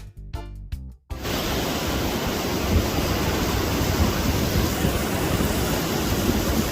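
A drum beat that cuts off about a second in, followed by a loud, steady rush of wind buffeting the microphone, with uneven low rumbles, in stormy weather.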